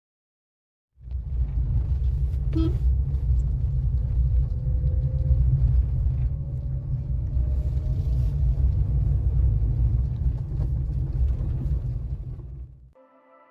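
Car driving along the road: a steady low rumble of engine and road noise, with a faint whine slowly rising in pitch. It starts abruptly about a second in and fades out near the end.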